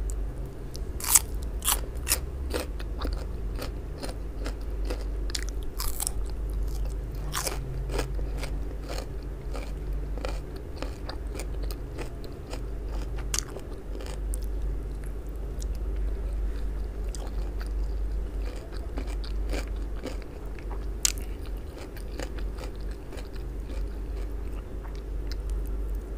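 Close-miked eating: crisp crunching bites and chewing of raw radish, loudest and densest over the first several seconds, then quieter, irregular chewing with one more sharp crunch about 21 seconds in. A steady low hum runs underneath.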